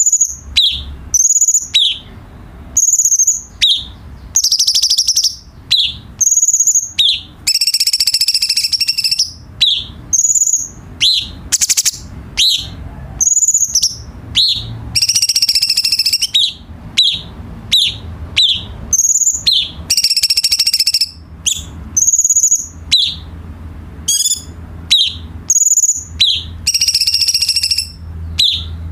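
Cucak cungkok songbird singing: quick, high whistled notes repeated over and over, broken every few seconds by longer buzzy, rattling phrases of about a second. A faint low hum runs underneath.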